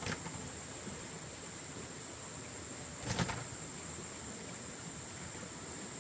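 Steady high-pitched insect drone, with a brief noisy sound of something being handled about three seconds in.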